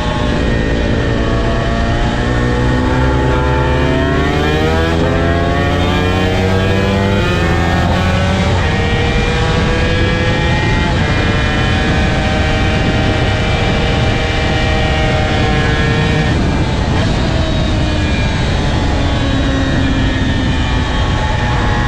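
Honda NSR250R's two-stroke V-twin engine at racing speed on track, its pitch climbing under acceleration and dropping at a gear change, then running high and steady.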